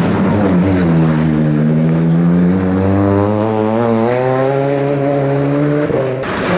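Rally car engine running hard, its revs dropping and then climbing again before holding steady. The note breaks off suddenly near the end and a rougher engine sound takes over.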